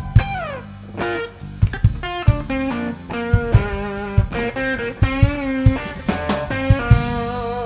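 Blues-rock band playing an instrumental break: an electric guitar lead with a sliding drop near the start and bent, wavering notes, over bass and drums.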